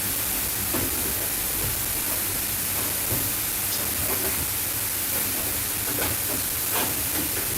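A steady hiss, strongest in the high treble, with a few faint short sounds in the background.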